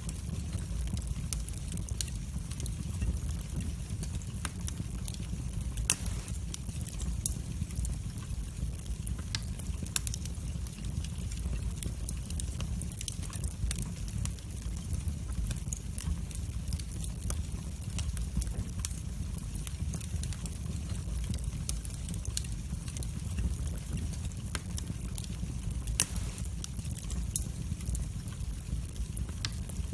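Wood fire burning in a fireplace: a steady low rumble of the flames with frequent sharp crackles and pops, two of them louder, about six seconds in and near the end.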